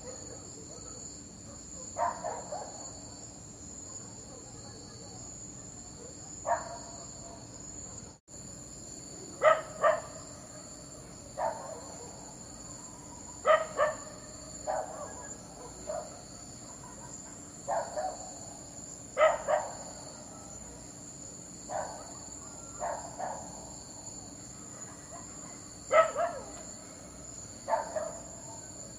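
A dog barking in short single or double barks at irregular intervals of one to four seconds, over a steady high chirring of crickets.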